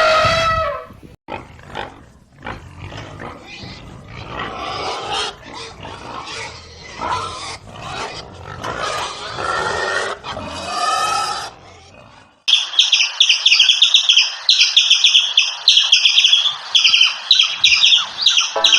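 Farm animals making a series of short, pitched calls for about twelve seconds. Then an abrupt switch to rapid, repeated high-pitched bird chirping.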